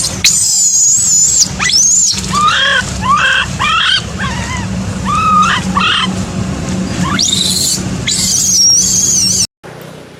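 Macaque screaming: long, high, wavering cries near the start and again toward the end, with a string of shorter rising-and-falling calls in between. The sound cuts off abruptly about nine and a half seconds in.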